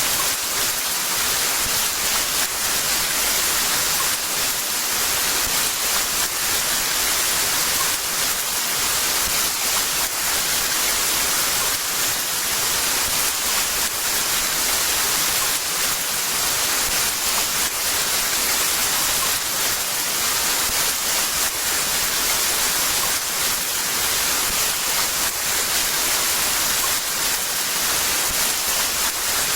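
Heavy rain pouring steadily: a dense, even hiss of many drops, with no change in intensity.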